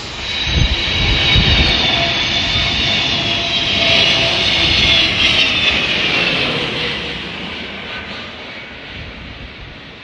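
Jet aircraft engines whining loudly over a steady hiss, the high whine sliding slightly lower and fading over the last few seconds as the aircraft moves away.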